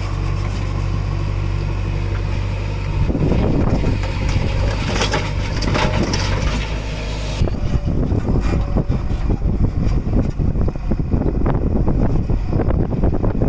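JCB backhoe loader's diesel engine running steadily. About seven seconds in, the sound changes abruptly to a rougher, choppy rumble.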